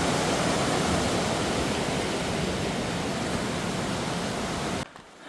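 Steady rushing noise with no pitch or rhythm that cuts off abruptly near the end.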